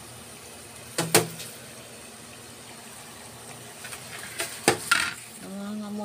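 Spring rolls deep-frying in a pan of oil, sizzling steadily, with sharp clicks of metal tongs against the pan about a second in and again near the five-second mark.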